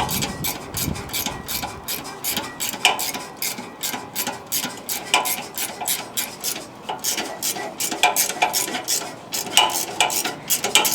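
Socket wrench on a 12 mm socket ratcheting rapidly, backing out a spring-loaded exhaust flange bolt. A louder clack comes every couple of seconds as each swing of the handle ends and reverses.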